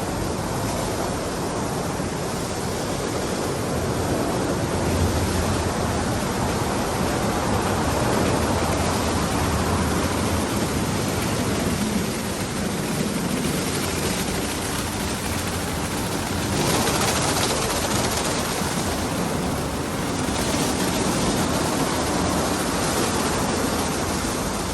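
Daifuku TWINFECT FORCE automatic gantry car wash at work: a dense, steady rush of spraying water and machinery that swells and eases in level as it runs.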